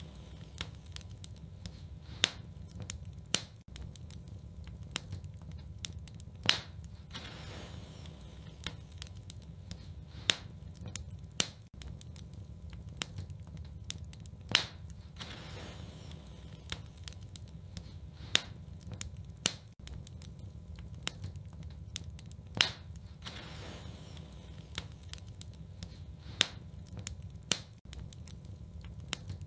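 Wood fire burning in a fireplace, crackling with sharp pops every few seconds over a steady low rumble.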